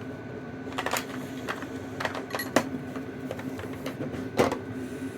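Metal tool parts clinking and knocking as a seal puller's fingers are handled and swapped for a larger set. There are a handful of separate clicks, the loudest about four seconds in, over a steady low hum.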